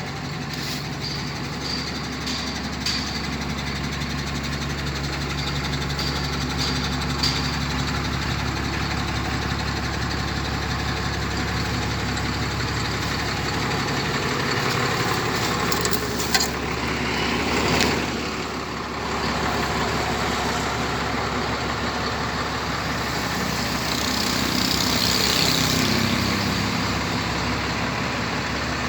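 Heavy diesel truck engine idling steadily, with a burst of air hiss about two-thirds of the way through and a brief rev that rises and falls near the end.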